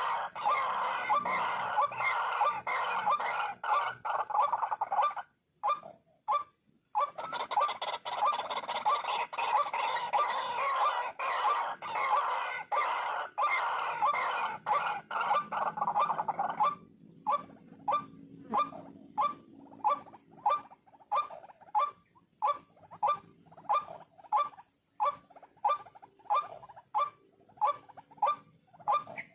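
White-breasted waterhen (ruak-ruak) calling, a monotonous repeated croaking call about two times a second. The calls break off briefly about five seconds in, then after about seventeen seconds come more spaced out and sharper against a quieter background.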